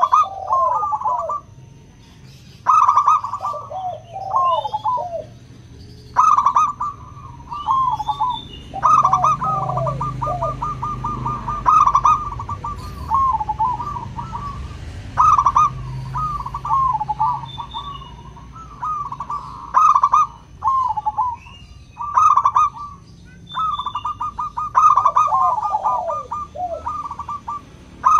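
Zebra dove (perkutut) song: phrases of rapid trilled cooing notes, each followed by lower falling coos, repeated every two to three seconds.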